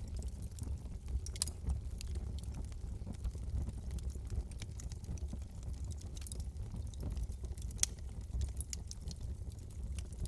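Wood fire in a fireplace crackling over a low, steady rumble, with scattered clicks and a few sharper pops, the loudest about a second and a half in and again near eight seconds.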